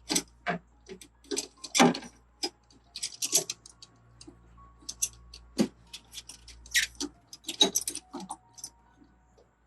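Irregular clicks, taps and light metallic clinks of paintless dent repair tools being handled and worked on a car body panel, a couple of dozen short strikes spread unevenly through the stretch.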